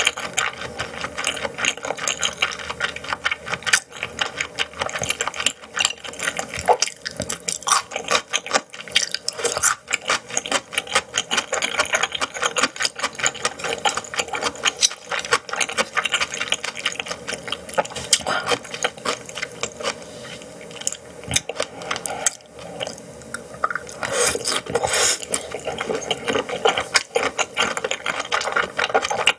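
Close-miked chewing of raw yellowtail sashimi: a steady run of quick, wet clicks and smacks from the mouth, several a second.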